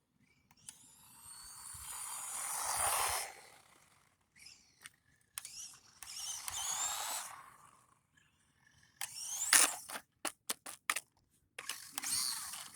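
Brushed 180-size motor and drivetrain of a 1/20 Xinlehong 9145 4x4 RC monster truck on 3S whining in bursts. Twice it swells as the truck speeds up and passes, then fades. Near the end comes a quick run of sharp knocks and clatters, then one more short whine.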